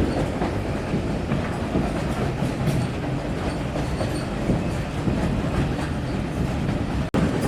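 Railway carriage running along the line, heard from on board: a steady rumble of wheels on the track with faint clatter over the rail joints. The sound drops out for an instant near the end.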